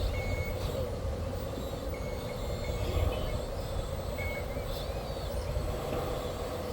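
Reversing beeper sounding in short, evenly spaced beeps that come and go in runs, over a steady hum and a low rumble.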